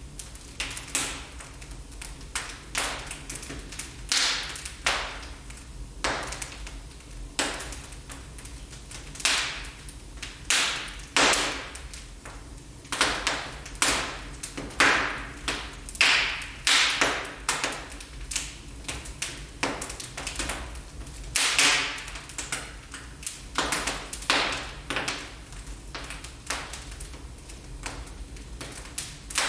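Wood fire in a fireplace crackling, with sharp irregular pops and snaps, several a second, over a faint low rumble.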